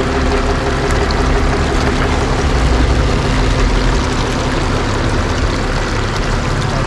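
A truck engine running steadily, with a constant rush of flowing creek water; the engine's hum thins out about halfway through.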